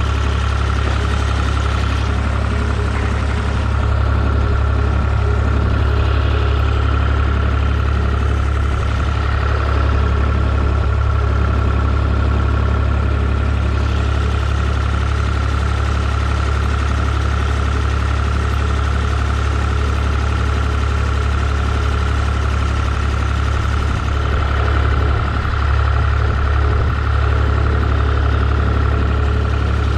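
Tractor engine running steadily at a constant speed, a deep hum with a steady higher whine over it.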